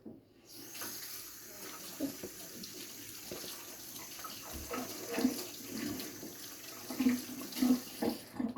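Water tap running into a sink while hands are washed under it, with small splashes. It comes on about half a second in and shuts off near the end.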